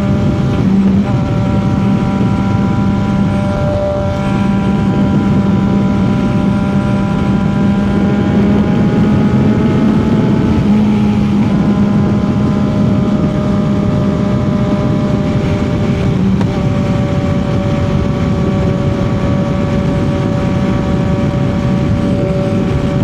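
CFMOTO 675 motorcycle's three-cylinder engine running at steady highway cruising revs, its pitch shifting slightly a few times, over heavy wind and road rush.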